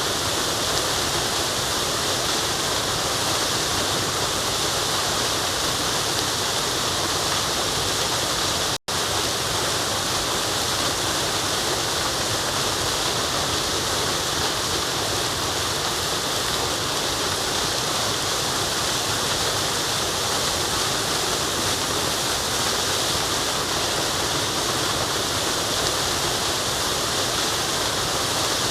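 Steady rushing of a forest waterfall, even and unbroken, cut by a split-second dropout to silence just under nine seconds in.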